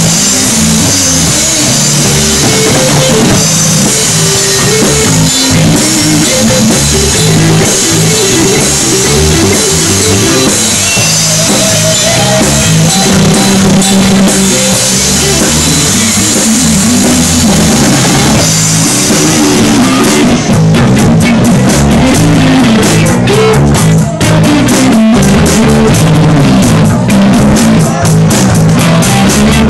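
Live instrumental jazz-blues jam by a trio of electric guitar, bass guitar and drum kit, loud and noisily recorded. About two-thirds of the way in, the steady cymbal wash drops out and the drums break into separate hits under the guitar and bass.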